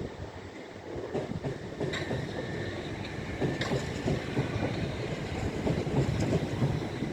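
Train running along the platform, its wheels clattering over the rail joints in a steady rumble that gets louder about a second in, with a couple of brief high wheel squeals.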